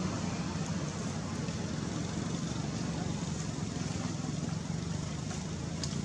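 A steady low mechanical hum over a constant hiss, with a faint click near the end.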